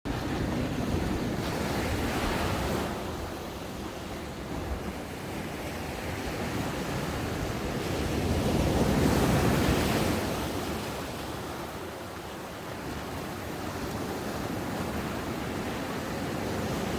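Ocean waves breaking on a sandy beach and washing up the shore, swelling to a peak about halfway through and then easing off, with some wind noise on the microphone.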